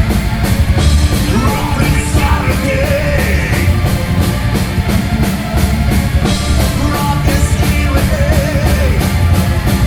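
Rock band playing a hard, punk-style rock song: drums keeping a fast, steady beat under the band, with a wavering melodic line rising above it twice.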